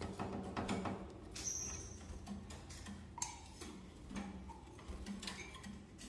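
Small cage birds giving a few short, high chirps, among light clicks and knocks from handling the cages and feeders.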